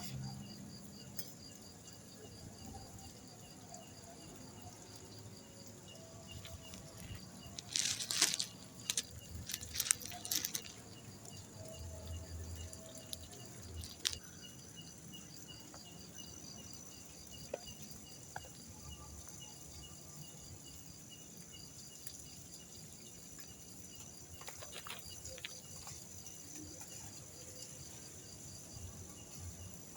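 Night insects, crickets among them, chirping steadily in a fine high pulsing trill, with a few brief bursts of rattling or clicking about eight to ten seconds in and once more near the end.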